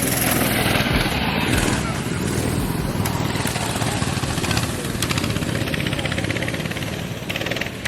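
Small single-cylinder engine of a mini bike or go-kart running hard, with a rapid, even firing rhythm.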